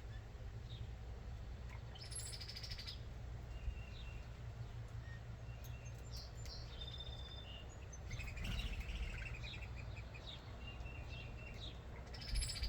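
Backyard birds chirping and calling at a feeder, with a short rasping call about two seconds in and again near the end, over a steady low hum.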